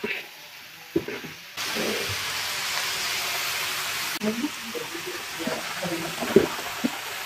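Chopped cucumber, carrot and shallots in chilli paste sizzling in hot oil in a large wok while a spatula stirs them: a steady hiss that cuts off abruptly about four seconds in. Quieter clatters and faint voices follow.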